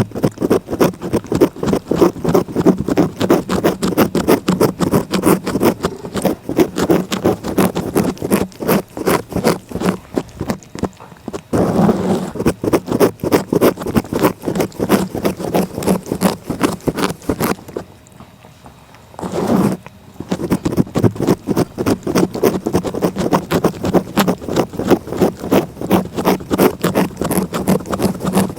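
A cat licking close to the microphone, its rough tongue making rapid rasping strokes, several a second. There are brief pauses about eleven seconds in and again near nineteen seconds.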